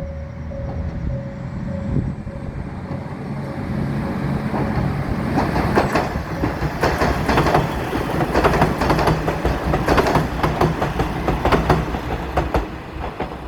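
Three-car Matsuura Railway diesel railcar train running through the station: a steady low engine drone, joined about four seconds in by a quick, loudening run of wheel clacks over rail joints.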